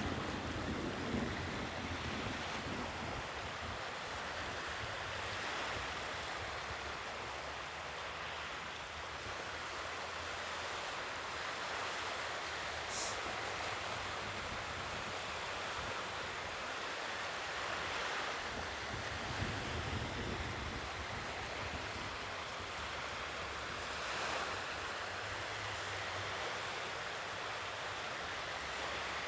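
Sea waves washing onto a shore, a steady surf with gentle swells every few seconds. There is a single short click about halfway through.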